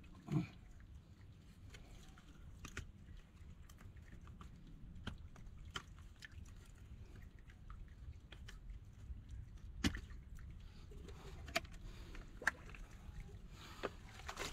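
Faint, scattered clicks and knocks over a low rumble: hands and tools working field drain tile in a water-filled mud trench, with some sloshing of the mud and water.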